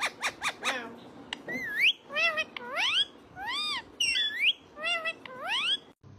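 Pet parrot calling: a fast run of short chirps in the first second, then a string of sliding whistled calls, some rising and some rising then falling, which stop sharply near the end.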